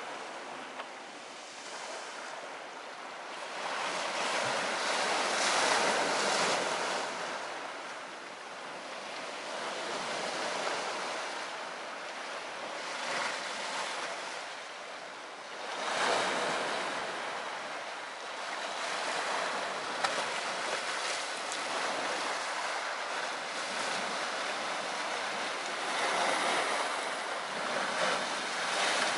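Sea surf washing onto the shore, swelling and fading in slow waves every several seconds. Two short pops stand out, about a second in and about twenty seconds in.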